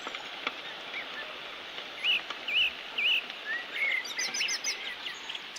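A small bird calling in short, arched chirps, three in quick succession about two seconds in and a looser run of chirps around four seconds in, over a steady rushing hiss.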